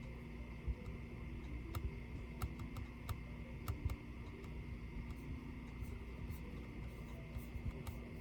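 Light, irregular clicks and taps, a dozen or so over several seconds, from a laptop and its small parts being handled, over a steady faint hum.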